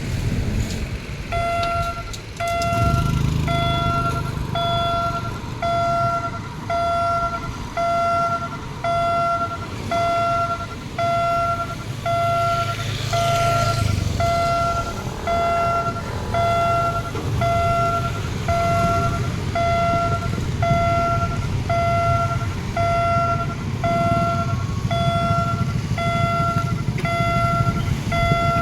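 Railway level-crossing warning alarm sounding a steady electronic two-tone beep, about one and a half beeps a second, as the barriers come down for an approaching train. A low engine rumble runs beneath it.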